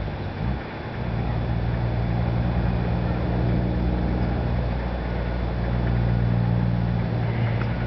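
An engine running steadily at idle, its low hum under a steady hiss, dipping briefly about half a second in.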